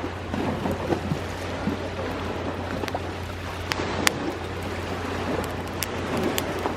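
Steady wash of sea waves on the shore, with the sharp pops and crackles of a wood bonfire scattered through it.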